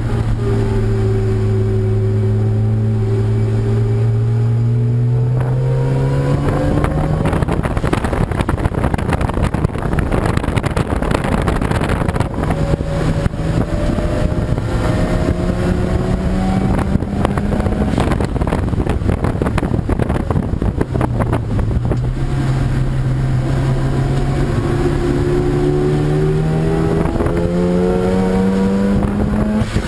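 Racing car engines under hard acceleration, their pitch climbing steadily over several seconds, once at the start and again in the second half.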